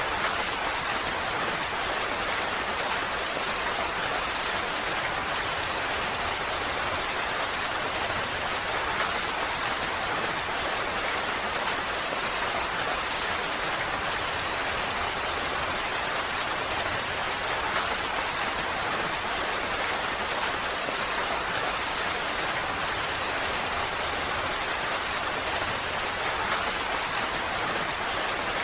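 Steady rain falling on surfaces, an even hiss with scattered drop ticks.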